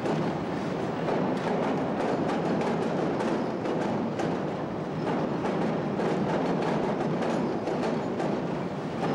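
Chicago 'L' elevated train rolling across a junction of switches and crossing diamonds on curved track: a steady rumble of steel wheels with rapid, irregular clacking as the wheels pass over the rail joints and frogs.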